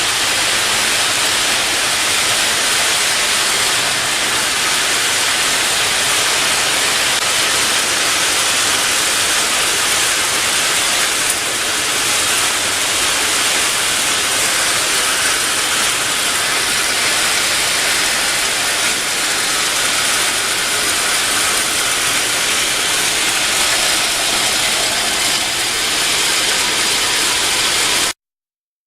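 Microwave drying and sterilization machine running: a loud, steady, hiss-like machine noise with a faint low hum underneath, cutting off abruptly near the end.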